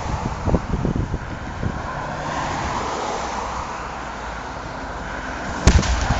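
Highway traffic passing, with wind buffeting the phone's microphone in low thumps at first. About two thirds of the way through comes one sharp, loud knock.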